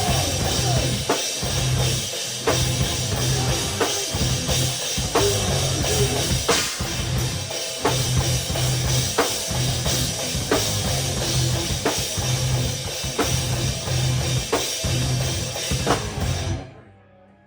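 Live rock band playing at full volume, heard close to the drum kit: drums with a heavy accented hit about every second and a half over bass and guitar. The music stops abruptly near the end.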